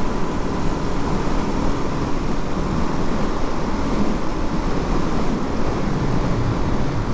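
Suzuki DR-Z400's single-cylinder four-stroke engine running steadily under way, mixed with the steady rush of riding.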